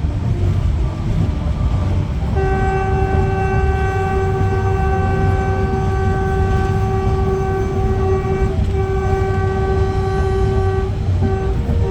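A train's locomotive horn sounding one long blast from about two seconds in, with a brief break partway through, then two short toots near the end, over the steady rumble of the moving train.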